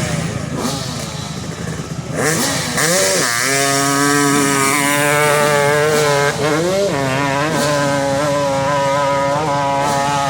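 A 200–250cc dirt bike engine revving up and then held at high revs, as on a hillclimb run, with a few brief dips and recoveries in the engine note.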